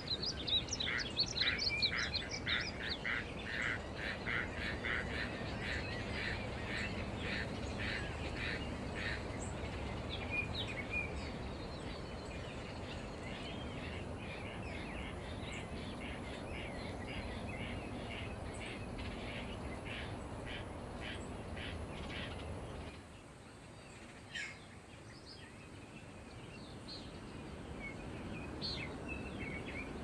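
Songbirds calling: one bird repeats a fast string of chirps over the first ten seconds or so, and others call on over a steady low background of ambient noise. About two-thirds of the way through the background drops away abruptly, leaving a few scattered calls.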